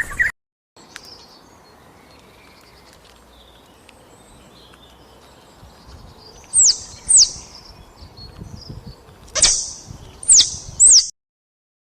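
Five short, high chirps from an animal, each sweeping down in pitch: two a little past halfway, three more near the end, over a faint steady background.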